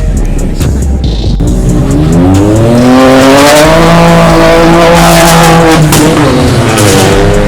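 Car engine revved up and held high for a few seconds while the tyres squeal, as in a drift or donut, then the revs drop and climb again near the end.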